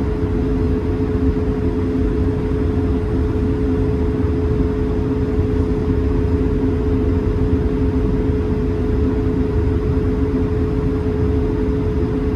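Cabin noise inside an Airbus A220-300 on the ground before takeoff: its Pratt & Whitney geared turbofan engines running at idle with a steady two-note hum over a low rumble.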